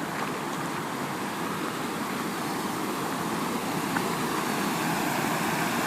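Creek water running over a small falls: a steady rushing noise that grows a little louder near the end.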